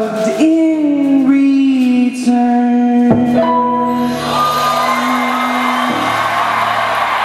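A male singer holds a long final note over the band's closing chord, which ends about three seconds in; then the audience breaks into applause and cheering.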